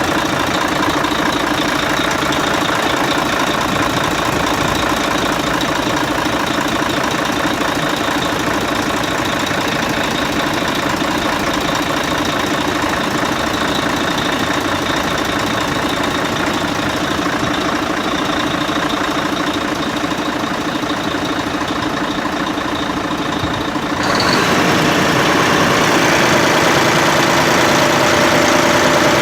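Fire truck's diesel engine running steadily, then stepping up abruptly to a louder, brighter running note about 24 seconds in.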